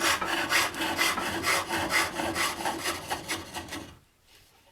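Hook tool cutting into wood spinning on a pole lathe: a rhythmic scraping of shavings coming off with each treadle stroke. The cutting stops about four seconds in.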